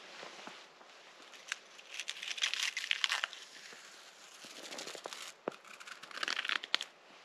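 Two bursts of dry crunching and crackling, with a few single sharp snaps between them.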